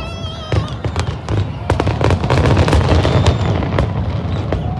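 Fireworks going off: a rapid string of sharp cracks and pops over a continuous low rumble of booms. A wavering high tone sounds at the very start.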